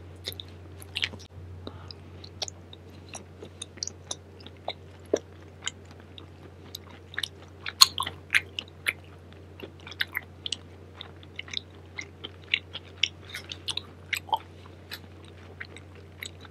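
A person chewing food close to a microphone: irregular wet mouth clicks and smacks, several a second, over a low steady hum.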